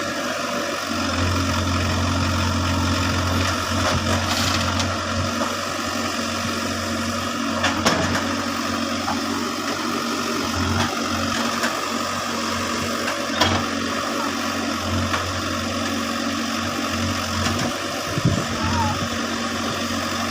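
Case backhoe loader's diesel engine running steadily, with a few sharp knocks, the loudest about eight and thirteen seconds in.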